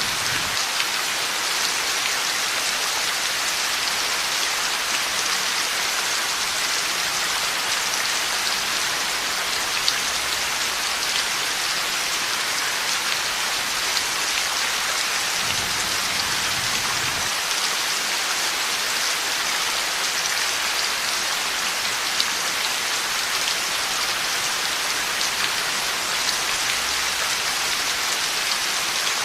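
Heavy rain falling steadily, a dense even hiss of drops, with a faint low rumble of distant thunder about halfway through.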